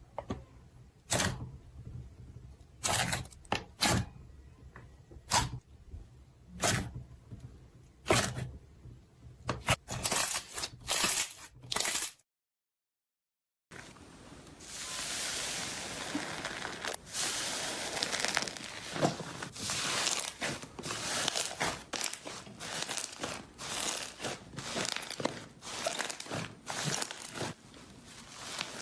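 Slime being squeezed and worked by hand, giving separate sticky pops and clicks about once a second. After a brief silent cut, a denser run of crackling and rapid popping follows.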